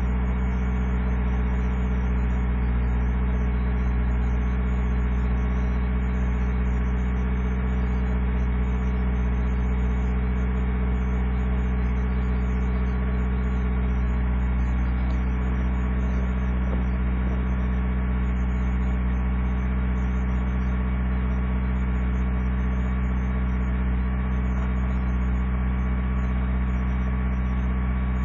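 Truck engine idling steadily while it warms up after a hard cold start at five below zero.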